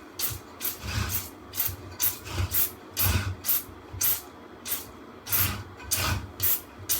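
Hand trigger sprayer pumping chemical coil cleaner onto the fins of a dirty furnace blower wheel: a quick run of short spray hisses, about two to three a second, each with a faint click of the trigger.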